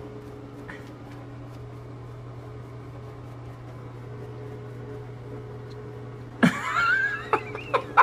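A steady low hum, then near the end a sudden loud burst of laughter that breaks into several short laughs.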